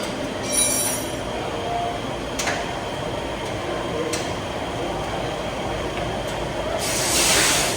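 Workshop repair sounds on a scooter wheel: a metal clink that rings briefly about half a second in, a couple of light knocks, and near the end a hissing burst lasting about a second, against a steady background noise.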